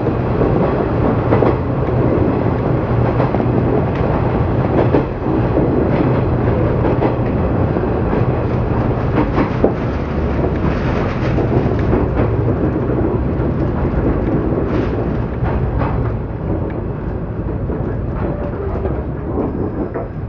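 Interior running noise of a JR 115 series electric train: steel wheels on rail with scattered clicks over rail joints and a steady low hum, growing gradually quieter over the last several seconds as the train slows alongside a station platform.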